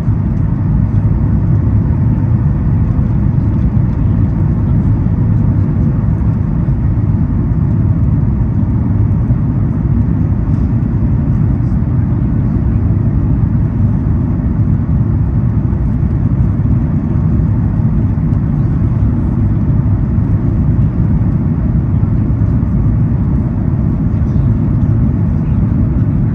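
Steady low rumble in the economy cabin of a Boeing 737 MAX 8 as it lands, with a faint steady tone above it.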